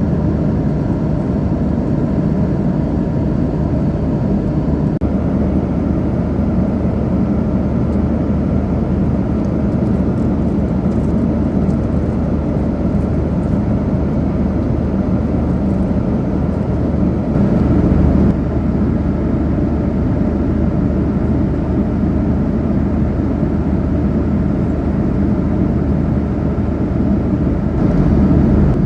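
Steady cabin noise of a vehicle travelling at cruising speed: a loud, even rumble with a few steady low hums. It swells briefly about two thirds of the way through and again near the end.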